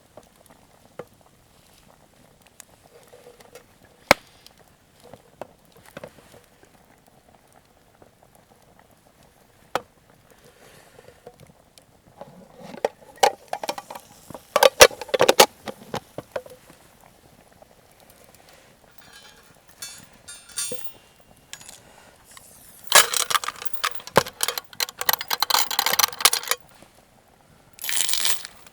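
Campfire cooking sounds: scattered sharp crackles and ticks, then several louder noisy bursts of a few seconds each, like bubbling or utensil handling at the pot.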